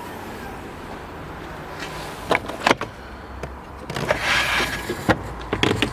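A few sharp clicks and knocks, and a brief sliding whoosh about four seconds in, from handling the fittings in an estate car's boot, such as the luggage cover.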